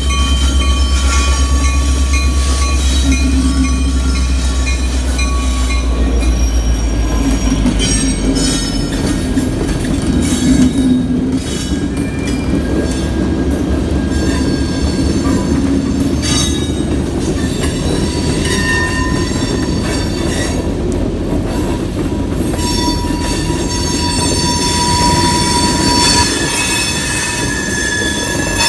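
A diesel train passing close by: the locomotive's engine running low and strong for the first several seconds, then the cars rolling past with their wheels squealing in thin, steady high tones.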